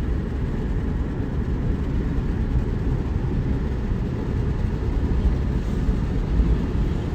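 Steady low vehicle rumble with no distinct knocks or rhythm.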